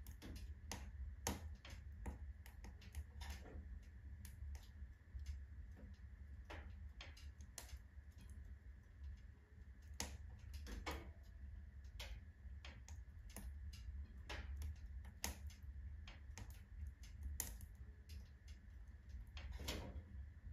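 Firewood burning in a wood-burning stove: irregular crackles and pops, a few each second, over a steady low rumble.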